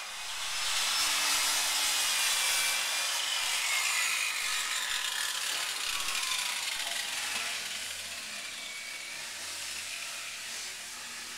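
Workers scraping and sanding the house's wooden window frames and trim: a continuous rasping noise that eases somewhat after the middle.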